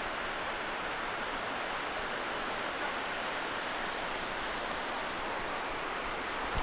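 Steady, even rushing background noise with no distinct events: outdoor ambience.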